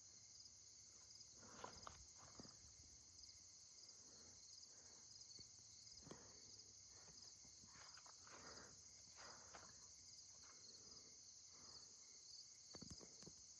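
Crickets chirring faintly in a steady, high, even trill, with a few soft scattered taps.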